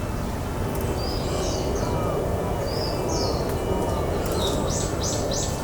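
Japanese white-eyes calling: short, thin, high notes, a few scattered and then a quick run of four or five near the end, over a steady low background rumble.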